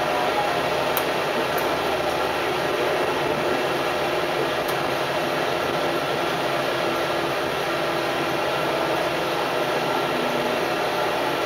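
Steady running noise inside the cabin of an Adelaide Metro 3100-series diesel railcar in motion, an even hum and rumble with a few faint clicks.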